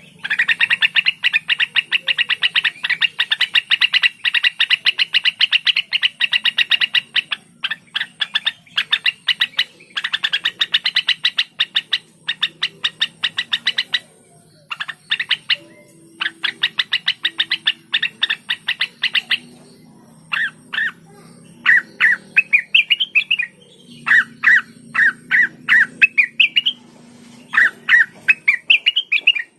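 Cucak wilis (rengganis) songbird calling in long, rapid runs of sharp, repeated chirps. These later give way to short whistled phrases that rise and fall, with brief pauses between them.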